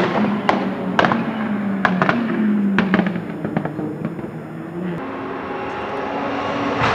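Rally car engine running off the throttle with a string of sharp exhaust pops and bangs. The engine note fades about five seconds in.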